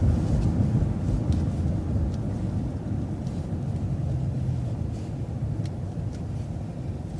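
Steady low rumble of engine and road noise heard from inside a moving vehicle, easing slightly toward the end, with a few faint ticks.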